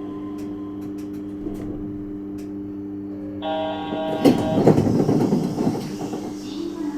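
Yurikamome 7300-series train standing at a platform with a steady electrical hum. About three and a half seconds in, a door chime sounds, and then the doors slide open with a loud rush of noise lasting about two seconds.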